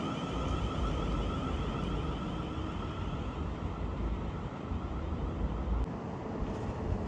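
Train rumbling past, with wind buffeting the microphone; a wavering high tone fades out in the first two seconds.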